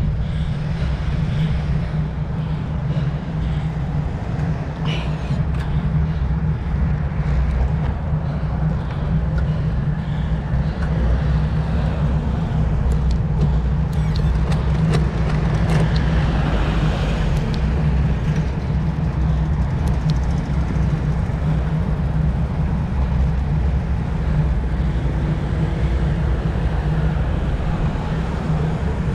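Steady wind rumble on the camera microphone from a road bike in motion, with tyre and road noise and a few faint clicks.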